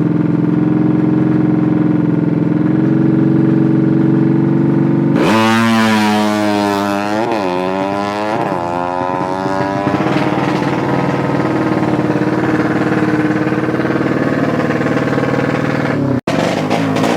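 Drag-racing motorcycle engines: a steady, held engine note, then about five seconds in a much harsher engine note comes in, its pitch rising and swinging up and down as it revs hard, followed by a continuous loud engine blare. There is a brief dropout near the end.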